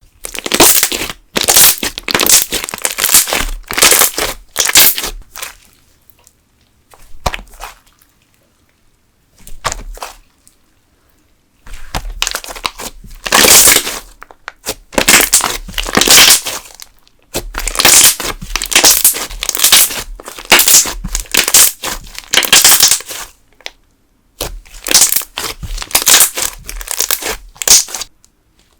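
Thick candle slime of soy wax in a wood-glue and school-glue base being worked by hand, its trapped air bubbles crackling and popping sharply. The crackling comes in repeated bursts of a second or two, with a quieter stretch of a few seconds about a third of the way through.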